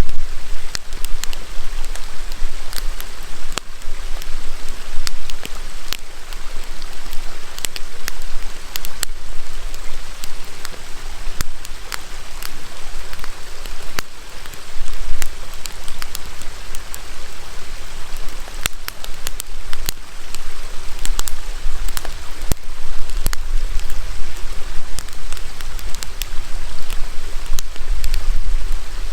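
Wood campfire crackling, with frequent irregular sharp pops, over the steady rush of a river.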